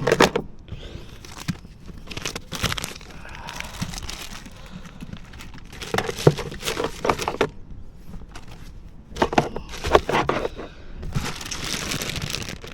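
Crinkling and rustling of plastic packaging, with scattered clicks and knocks of small items being handled and put away, in irregular bursts.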